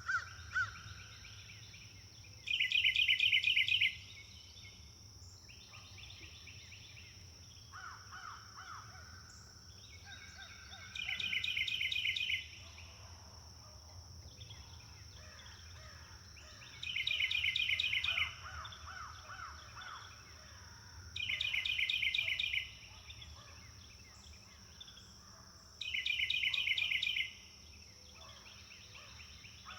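Wild birdsong: one bird repeats a loud phrase of quick, rapidly repeated high notes five times, each about a second and a half long and a few seconds apart, while other birds call more quietly in between. A steady high-pitched whine runs underneath.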